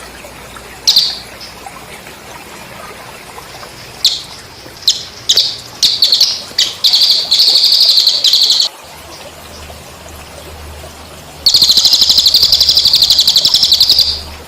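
Cililin bird calling: several sharp high chirps, then rapid, evenly pulsed trills, the longest lasting about two and a half seconds near the end. A steady trickle of water runs underneath.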